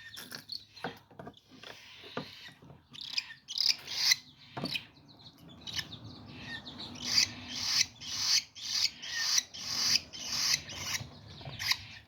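Baby cockatiel chicks, about two weeks old, giving raspy, hissing begging calls while being hand-fed by syringe, the feeding response of hungry chicks. The calls come in short bursts that settle into a steady run of about two a second in the second half.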